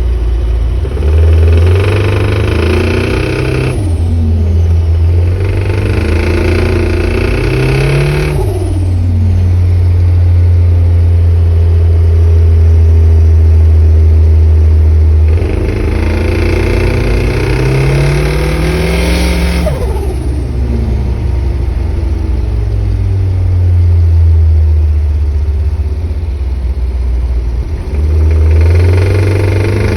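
Mitsubishi 4G54 four-cylinder engine revved up four times and dropping back to idle each time, knocking from a spun No. 3 big-end bearing.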